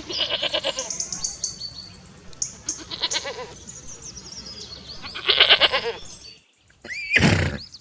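Mountain goat bleating: three wavering calls a couple of seconds apart. A short, loud, harsh burst follows near the end.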